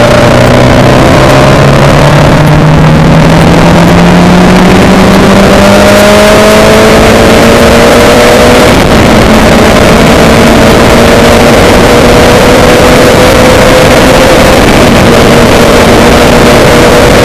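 A vehicle's engine running and accelerating, its tone rising gradually for about the first six seconds and then holding steady, under a loud, constant rushing noise.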